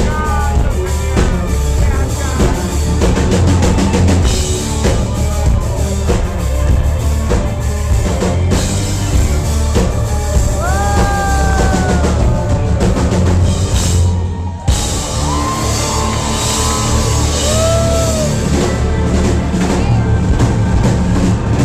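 Live country-rock band playing an instrumental passage with a driving drum kit and bass, some sliding held notes over it, and a brief drop in the music about two-thirds of the way through.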